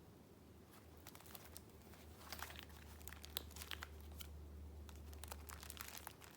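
Paper rustling and crinkling as sheets are handled, in light irregular bursts of rustle and small clicks, busiest in the second half. A faint steady low hum runs underneath.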